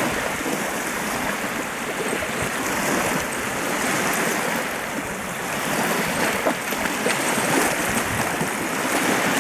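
Small waves washing and lapping steadily onto a shoreline, with gentle swells in the wash.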